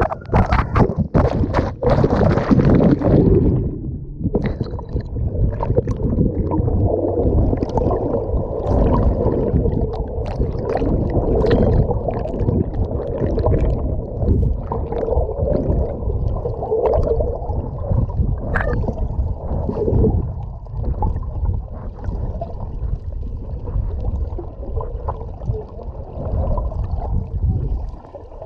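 Water rushing and gurgling on a moving jet ski, with splashing and wind for the first few seconds. About four seconds in the sound turns dull and muffled, with only the low rumble of water and engine left.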